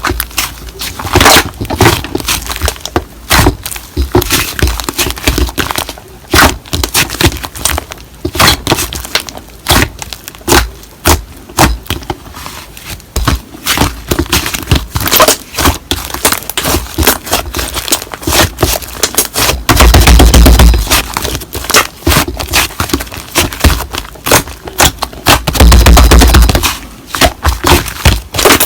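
Slime being squeezed and poked by hand: a quick, irregular stream of wet pops, clicks and crackles, with two louder, fuller squishes about two-thirds of the way through and again near the end.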